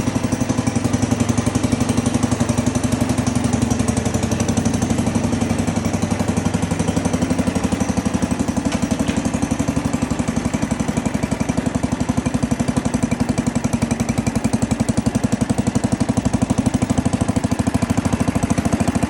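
A 1961 International Harvester Cub Cadet's single-cylinder Kohler engine runs steadily at idle after a cold start, warming up, with an even, rapid beat of exhaust pulses.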